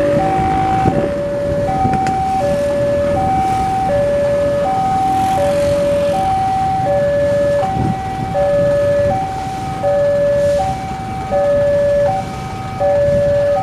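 Railway level-crossing warning alarm sounding a steady two-tone electronic ding-dong, a low and a higher tone alternating about once every three-quarters of a second, over a rumble of road traffic.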